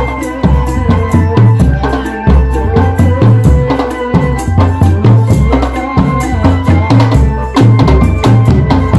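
Drum band music playing loud: heavy bass drum beats in a steady rhythm, with rattling percussion over a held melody.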